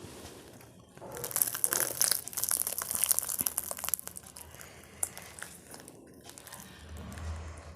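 Close-up eating sounds: a dense burst of crunching and crackling for about three seconds, starting about a second in, then quieter scattered chewing clicks.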